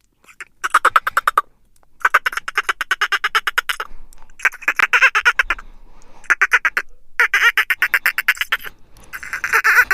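Duck quacking in about six quick runs of fast, pulsed calls with short pauses between them.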